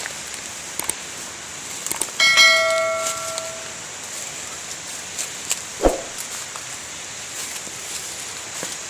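A metal object struck once about two seconds in, ringing like a small bell and fading over about a second and a half. A short dull knock comes about six seconds in, over a steady hiss.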